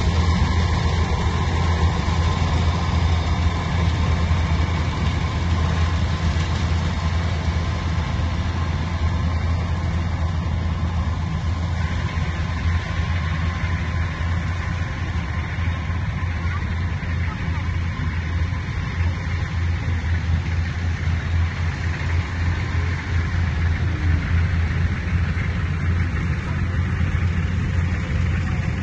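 Engine of a heavy farm machine running steadily at constant speed, a deep even hum with a rapid pulse.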